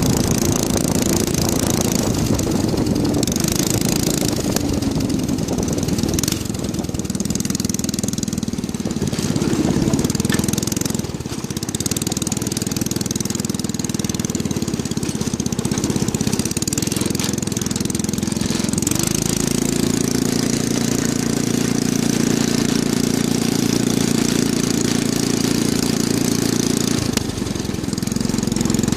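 Go-kart's small engine running loudly through a modified exhaust pipe while being driven, its speed rising and falling with the throttle; it holds a steady, higher note for several seconds past the middle, then eases off near the end.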